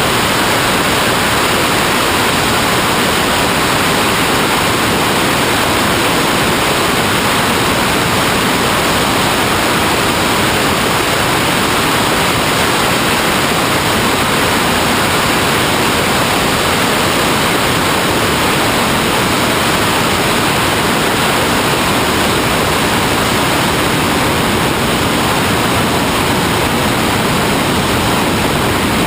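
A steady, loud rushing hiss that does not change.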